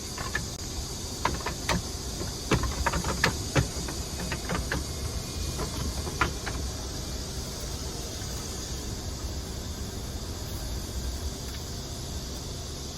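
Clips and frame parts of a folding bed platform being fastened and handled: a scatter of sharp clicks and knocks over the first six seconds or so, then only a steady hiss.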